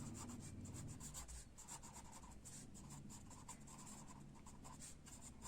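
Faint scratching of a pen writing, a quick run of small strokes.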